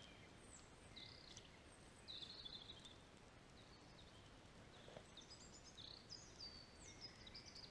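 Faint songbird calls over a quiet outdoor background: scattered chirps, short descending whistles and trills, busier in the second half, with a few faint clicks.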